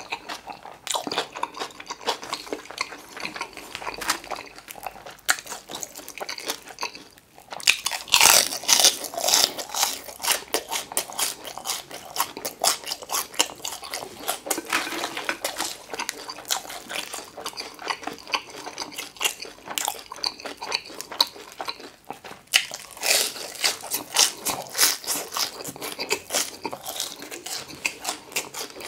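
Close-miked eating sounds: chewing spicy stir-fried seafood noodles and biting into crispy glutinous-rice sweet-and-sour pork, with wet chewing and crunching throughout. The crunching gets louder for a couple of seconds about eight seconds in and again a little past the twenty-second mark.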